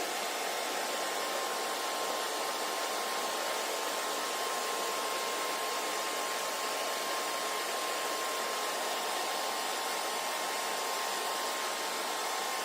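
Hair dryer running steadily: a constant airy rush of blown air with a faint steady whine in it from the motor and fan.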